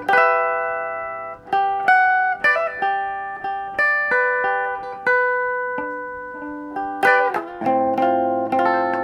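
Music: a plucked string instrument picking a slow melody of single notes and small chords, each note ringing out and fading.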